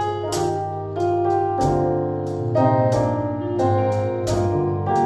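Church praise band playing an instrumental passage: keyboard chords over a held bass, with regular percussion strikes about twice a second.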